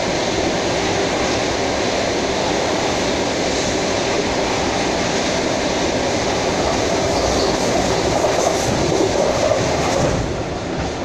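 Electric commuter train (elektrichka) running on the rails, heard from inside the carriage: a steady, loud noise of wheels and running gear as it comes into its terminal station.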